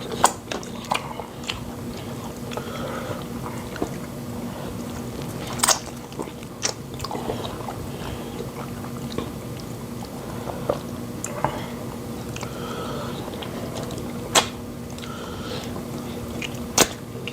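Close-miked eating sounds of people eating fufu and pepper soup: chewing and wet mouth noises, with a sharp click or smack every few seconds. A steady low hum runs underneath.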